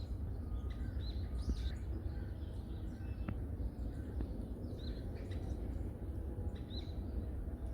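Wild birds calling in a forest: short high chirps that drop in pitch, repeated every second or two, with fainter calls between. A steady low rumble runs underneath.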